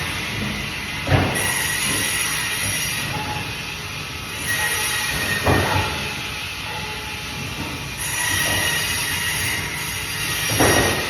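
Bandsaw running and cutting through fish: a steady screeching whine with a faint high tone. Three short knocks, about a second in, halfway through and near the end.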